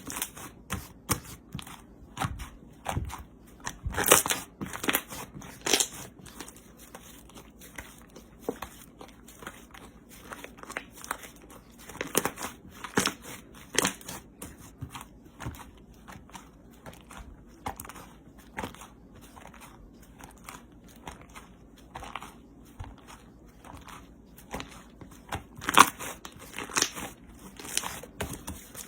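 Hands squishing and pressing a crunchy slime, giving irregular crackles and crunches, louder in a few clusters.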